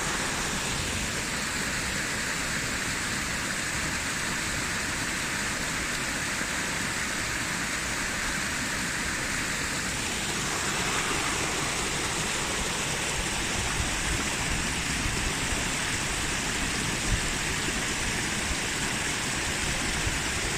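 Fast-flowing river water rushing steadily over rocks, a continuous even rush that shifts slightly about halfway through.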